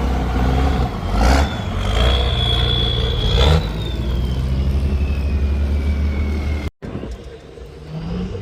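Diesel pickup truck engine running hard with a steady low drone, two short sharp blasts, and a high whistle that holds and then slides down in pitch. The sound cuts out briefly near the end and comes back quieter.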